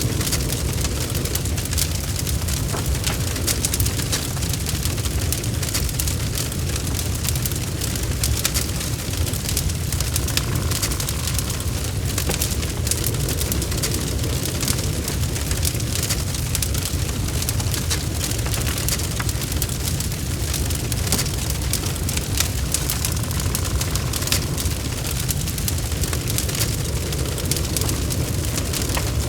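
Log fire burning in a fireplace: dense, rapid crackling and popping over a steady low rumble of the flames.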